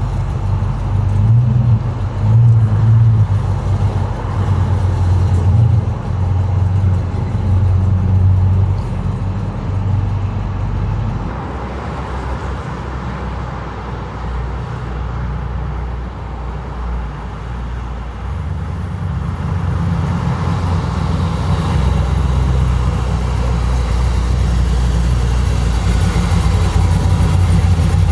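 Classic car engines running with a deep, loud rumble. The rumble eases off in the middle and grows louder again near the end.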